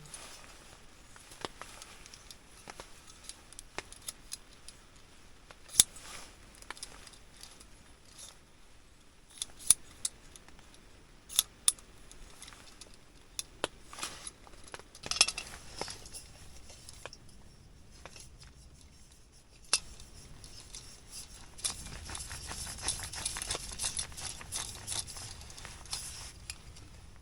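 Scattered sharp clicks and snips of camp cooking gear and food packets being handled. A denser run of crinkling packaging fills the last several seconds.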